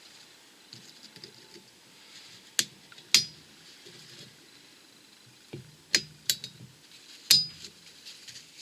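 Sharp metallic clinks, about five spread over several seconds, from fitting a circlip into the outer groove of a wheel-bearing hub carrier.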